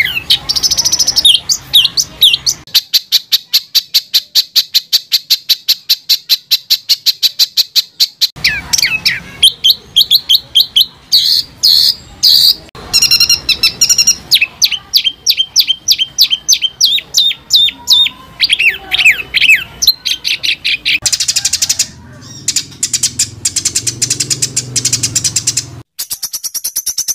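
Songbird singing in fast, harsh trains of short repeated high notes, the dense 'shots' (tembakan) prized in competition birds. It switches from one rapid note pattern to another every few seconds.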